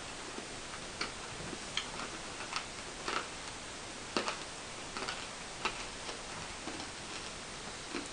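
Hard candy being bitten and chewed: a series of sharp, uneven clicks, about one every half second to a second.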